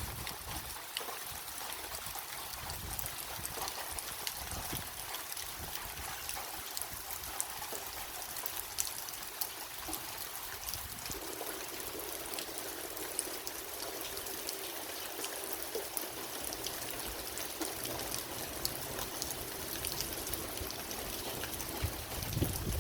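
Steady rain falling: an even hiss of water with many small drop ticks. From about halfway a faint steady hum joins underneath.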